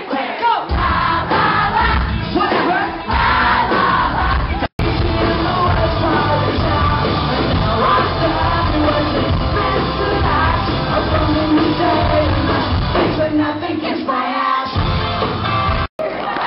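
Live band music with a singer, loud and full, with the sound cutting out for an instant twice.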